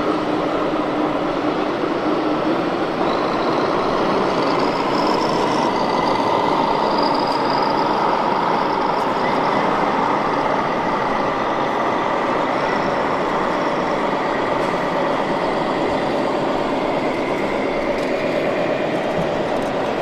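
Radio-controlled model trucks running: a steady wash of noise with faint, slowly drifting motor hums and whines.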